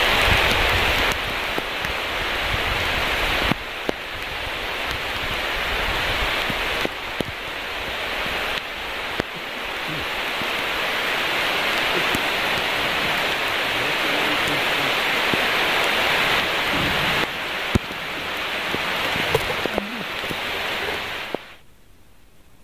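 Steady rain falling, with a few sharp taps scattered through it. It cuts off abruptly shortly before the end.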